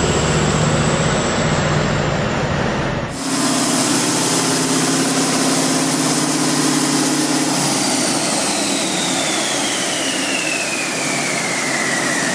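Large diesel engine running. About three seconds in, the sound cuts to another big diesel running at high revs with a high whine. A few seconds later the engine note drops off and the whine falls slowly in pitch.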